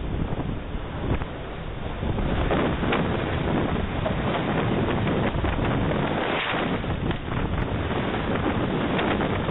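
Strong storm wind buffeting a Ring doorbell camera's microphone: a steady, dense rushing noise that grows louder about two seconds in.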